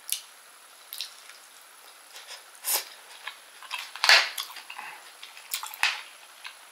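Close-miked wet mouth sounds of chewing a grilled oyster: irregular short smacks and squelches, the loudest about four seconds in.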